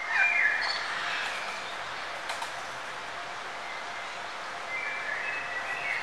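Birds chirping with short pitched notes, a cluster near the start and another near the end, over a steady hiss of outdoor ambience.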